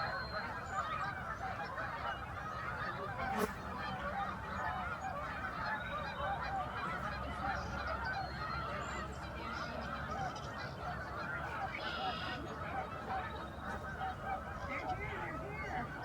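Huge flock of migrating geese honking, many calls overlapping into one dense, unbroken chorus. A single sharp click comes about three and a half seconds in.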